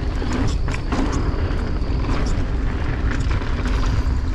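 Wind rushing over the microphone while a mountain bike rolls along a dirt trail, with tyre crunching and scattered rattles and clicks from the bike.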